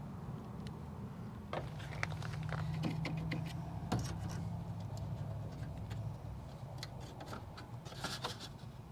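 Scattered light clicks and taps of hands and tools handling parts at the back of an RV refrigerator, over a steady low hum.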